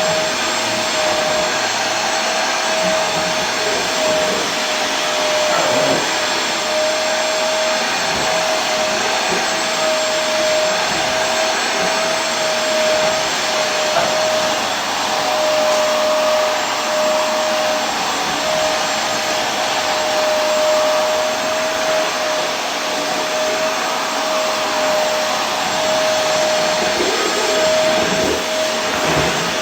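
Vacuum cleaner running steadily: a constant rushing hiss with a high, steady motor whine.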